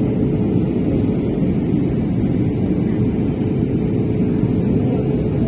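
Passenger airliner cabin noise during the descent to landing: a steady, dense roar of engines and airflow with a faint constant hum running through it.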